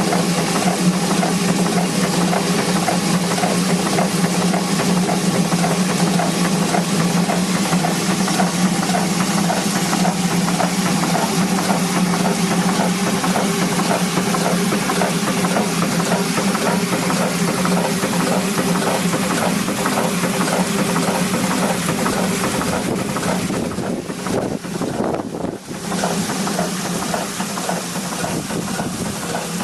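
Rider hot air pumping engine running steadily, with a constant hum, a rhythmic mechanical beat and a broad hiss. The sound drops away for a couple of seconds near the end, then returns.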